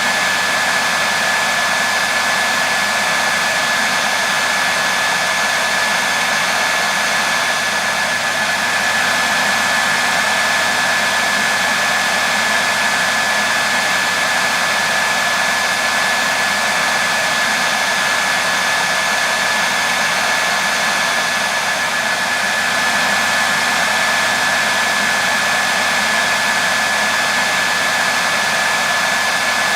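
Hair dryer running continuously: a steady rush of blown air with a thin, constant whine from the motor, unchanging in level.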